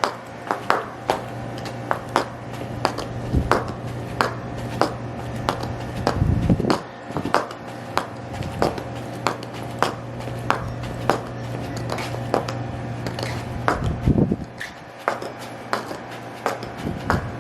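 High heels stomping on a hard surface: sharp heel clicks about two a second, over a steady low hum, with a brief low rumble twice.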